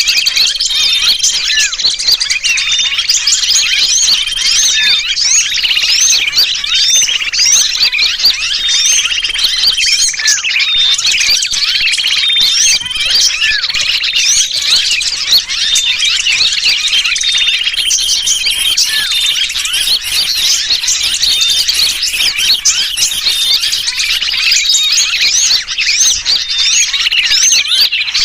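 Bird-trapping lure recording: a dense, continuous chorus of many small birds chattering, mixed with the distress calls of a sooty-headed bulbul, with short flat whistles repeating about once a second.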